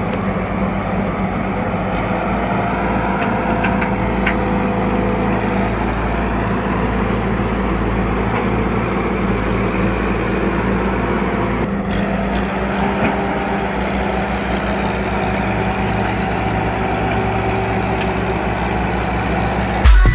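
Tractor engine running steadily, with a sudden change in the sound about halfway through.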